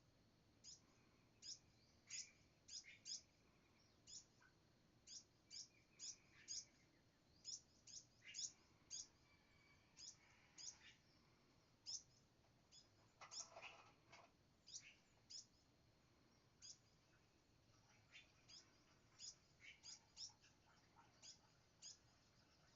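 Birds chirping faintly while being fed: many short, high chirps that each slide downward in pitch, coming irregularly and sometimes several a second, with one fuller call about two-thirds of the way through.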